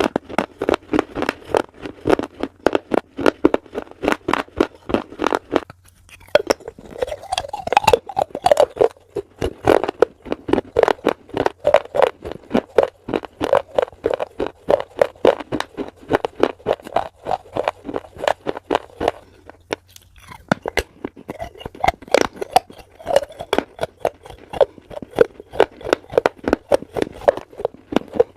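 Someone chewing crunchy food close to the microphone: a rapid run of sharp crunches, several a second, with short pauses about six seconds in and again near twenty seconds.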